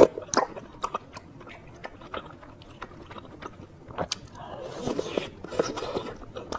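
Close-miked chewing and biting of spicy noodles with toppings: scattered crisp clicks, busier about two-thirds of the way through.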